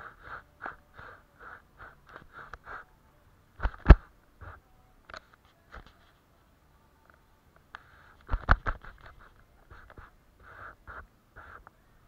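Watercolour paintbrush strokes on paper, short repeated strokes about two or three a second. Two louder knocks, about four and eight and a half seconds in.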